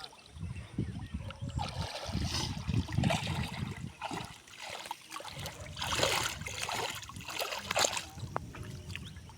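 Water splashing and sloshing as someone gropes and wades through shallow muddy water by hand, with a couple of sharper splashes about six and eight seconds in.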